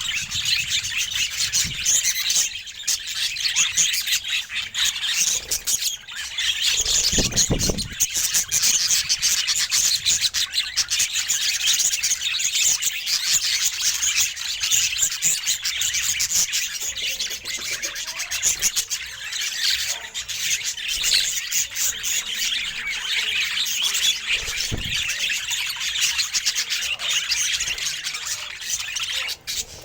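Budgerigars chattering: a continuous stream of rapid chirps, warbles and squawks, with a brief low thump about seven seconds in and another later on.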